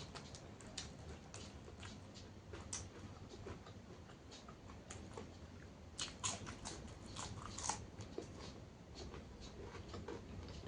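A person chewing and crunching food close to the microphone, a run of wet, crisp bites with a louder burst of crunching a little past halfway.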